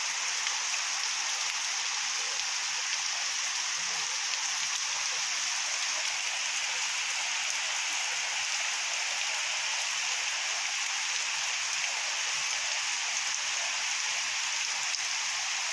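Heavy rain falling steadily, a constant even rush of drops with no let-up.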